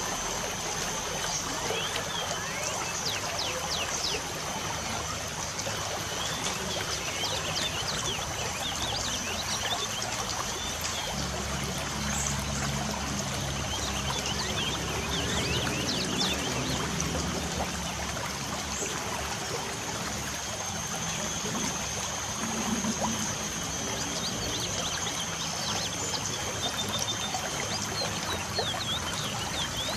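Light rain falling steadily, a constant trickling patter, while birds chirp in short, repeated calls throughout.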